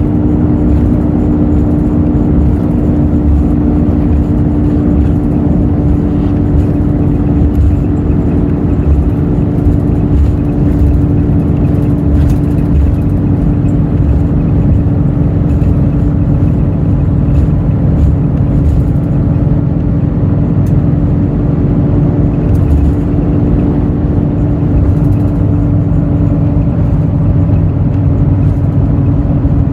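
Hino J08E-VD 7.7-litre diesel engine of a Hino RN8JSVU-SSF bus running steadily under way, with low road rumble, heard from inside the bus. The engine note holds at an even pitch with no gear changes.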